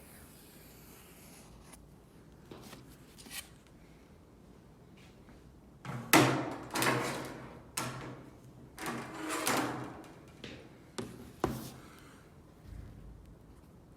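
A run of short knocks, scrapes and rattles of objects being handled, loudest about six seconds in and dying away by twelve seconds. Before that there are only a few faint ticks.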